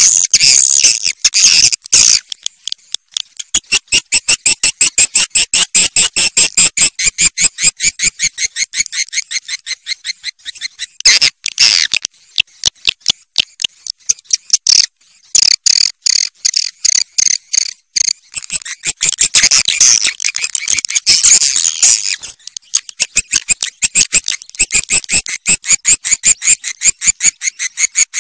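Swiftlet calls: fast trains of sharp, clicking chirps, about six a second, with a few brief breaks. This is a swiftlet call recording of the kind played to lure swiftlets into a nesting house.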